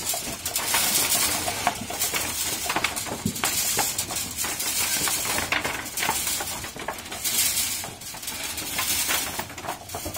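Potatoes clattering and rattling as they tumble through a potato grading machine being sorted by size: a dense, continuous jumble of knocks.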